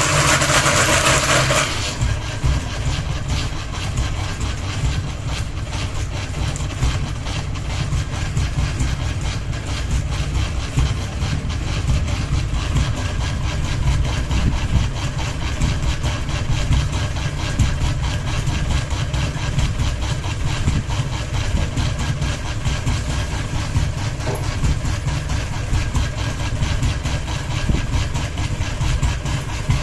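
Ceiling fan running with only one blade, badly out of balance and wobbling, giving a steady low rumble with a fast, dense rattle. It starts suddenly, louder and brighter for the first two seconds, then settles.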